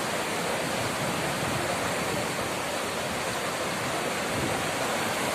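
Steady rush of water in heavy monsoon rain, an even, unbroken noise with no separate drops or knocks.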